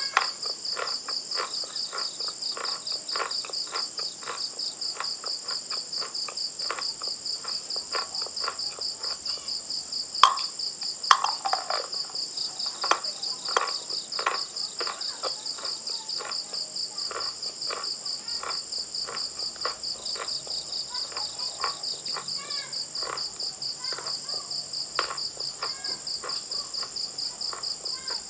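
Close-miked eating: crunching bites and chewing, heard as many short sharp cracks, the loudest a little past the middle. Behind it, crickets chirp in a steady, high, pulsing trill that never stops.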